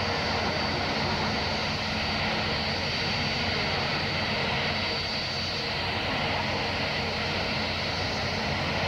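Airbus A320's jet engines running steadily: a constant rushing noise with a steady high whine above it.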